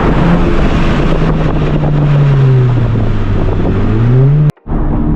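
Honda Civic Type R's turbocharged four-cylinder, fitted with a catless downpipe and resonator delete, driving under way: the engine note sinks in pitch as the revs drop, then climbs back as it accelerates. The sound cuts out for a split second near the end and picks up again at a steady pitch.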